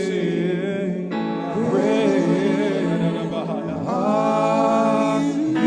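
Live worship music: voices singing long, drawn-out notes over steady held chords.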